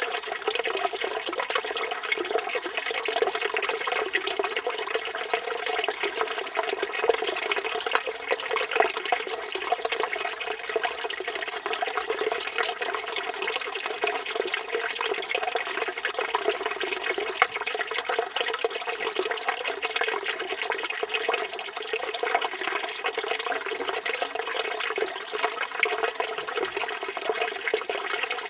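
Water from a village fountain's spout running steadily and splashing into the stone basin below, a continuous bubbling splash with a strong low-middle band.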